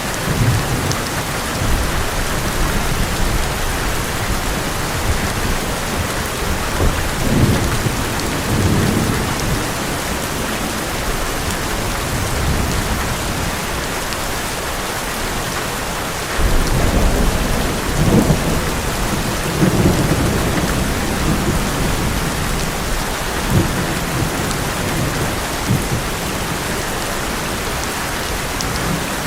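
Heavy rain drumming steadily on an old metal roof, with thunder rumbling several times, longest and loudest about two-thirds of the way through.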